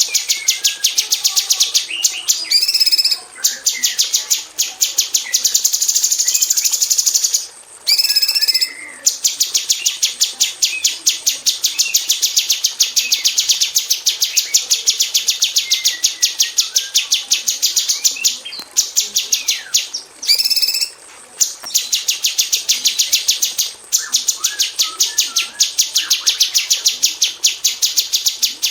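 Female orange-bellied leafbird singing long runs of rapid-fire, tightly repeated high notes, broken by a few short pauses.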